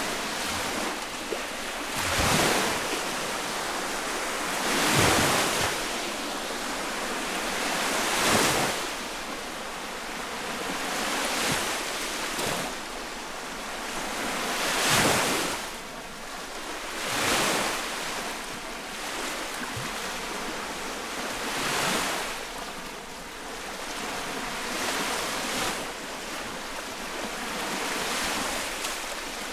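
Small lake waves breaking close by on the shore, a wash of water surging every two to three seconds with splashes as each one lands.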